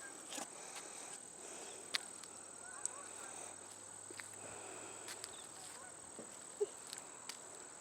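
Steady high-pitched insect song, a continuous thin trill like crickets, with a few faint sharp clicks scattered through it.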